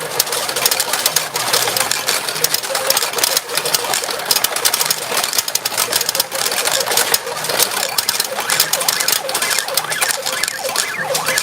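Retro pachinko machine in play: a dense, rapid clatter of steel balls running through the machine, with short electronic tones over it.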